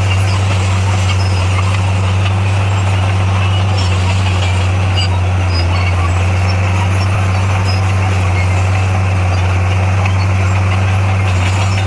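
Komatsu D58A bulldozer's diesel engine running steadily under load, a constant low drone with track and machinery noise.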